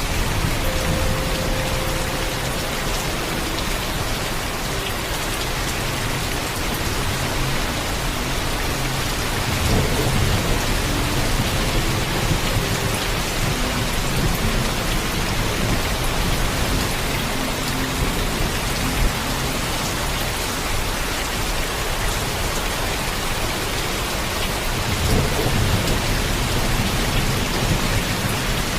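Heavy, steady rainfall with low rolls of thunder, one about ten seconds in and another near the end.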